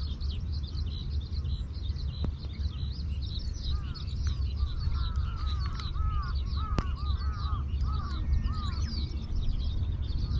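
Birds calling: steady high chirping throughout, and a run of repeated curved call notes from about four to nine seconds in, over a steady low rumble of wind on the microphone.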